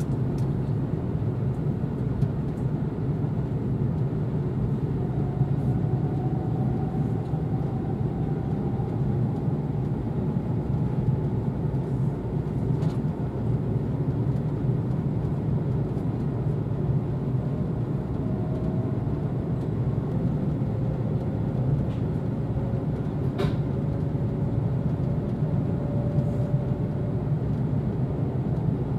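Steady running rumble of an E4 series double-decker Shinkansen, heard inside the passenger cabin as the train moves at low speed. A faint whine glides slowly upward twice, and two sharp clicks come about 13 and 23 seconds in.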